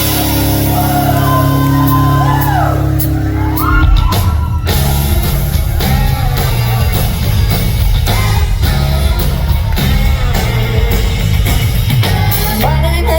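Live country-rock band playing in a concert hall, with crowd yells and whoops over held chords. About four seconds in the drums hit and the full band carries on at a steady beat.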